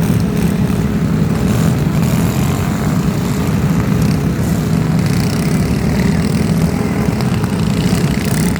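An engine running steadily, a loud constant drone that holds the same pitch and level throughout.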